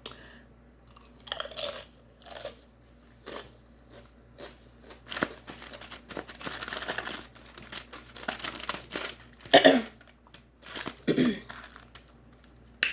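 Close-miked eating: crunching and chewing on bites of food in irregular bursts, the loudest crunch about two-thirds of the way through.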